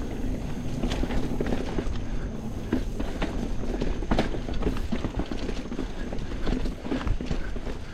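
Mountain bike riding over a dirt trail: tyres rolling over the ground with a steady rumble, and frequent irregular knocks and rattles from the bike as it jolts over roots and bumps.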